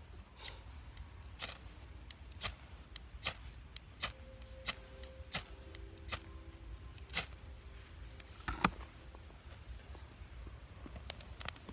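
Wood fire crackling, with sharp irregular pops, the loudest a bit over two-thirds of the way through. A faint steady tone is held for a few seconds in the middle.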